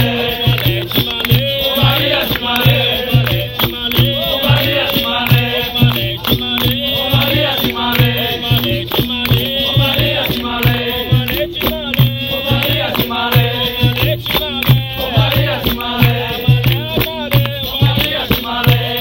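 Live capoeira roda music: voices singing call-and-response style over a steady drum beat about twice a second, with berimbau and rattling percussion.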